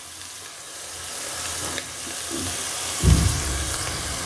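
Salmon sizzling in oil in a metal pot, a steady hiss that builds slightly, with a low thump about three seconds in.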